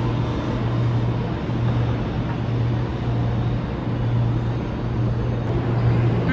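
New York City subway train running in the station: a steady rumble with a strong low hum that swells and eases slightly.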